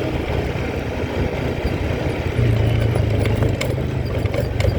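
Quad bike engine running steadily with a low hum, growing louder about two and a half seconds in.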